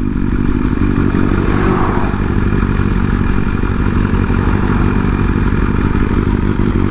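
Inline-four sport bike engine running at a steady speed, an even engine note with no revving.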